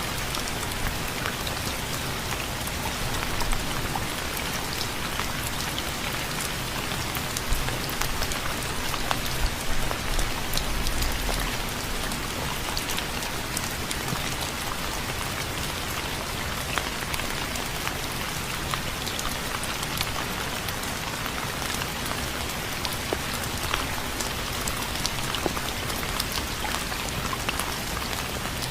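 Steady rain falling, an even hiss dotted with individual drop impacts.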